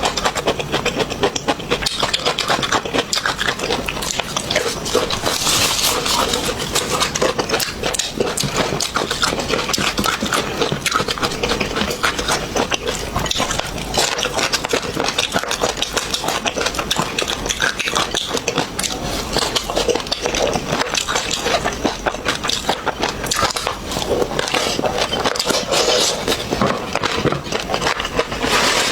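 Close-up eating noises: chewing, smacking and crunching, a dense run of small wet clicks and cracks with no pause.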